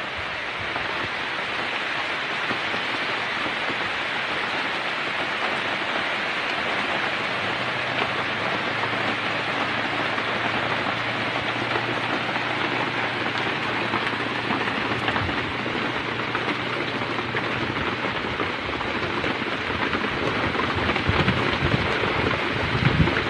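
Heavy rain pouring steadily, heard from under a shelter roof, growing a little louder toward the end with low rumbles in the last few seconds.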